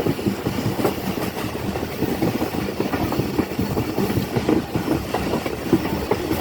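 Moving passenger train heard from on board: a steady rumble of wheels on the rails, with dense irregular rattling and clicking.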